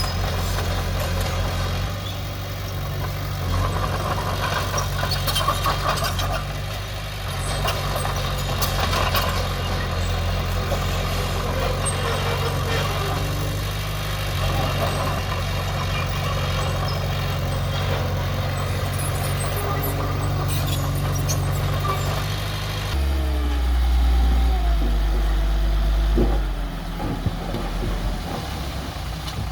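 Diesel engine of earthmoving machinery running steadily, with scattered clanks. About three quarters of the way through the engine note changes abruptly to a deeper, lower rumble.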